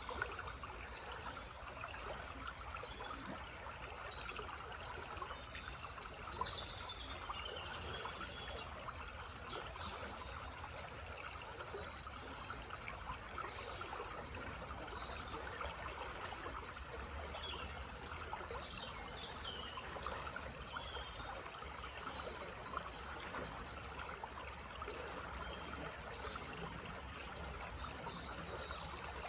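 Small forest stream trickling steadily, with birds chirping faintly high above the water from a few seconds in.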